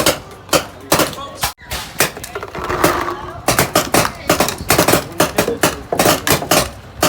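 A rapid, irregular series of sharp clacks and knocks, about two or three a second, with a brief murmur of voices about three seconds in.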